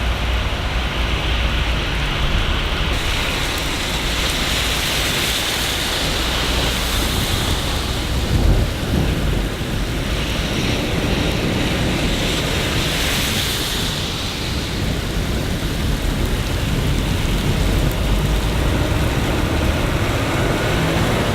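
Steady rain falling, a dense hiss over a continuous low rumble. The hiss turns brighter about three seconds in and eases again about fourteen seconds in. There is a brief louder swell of the rumble around eight seconds in.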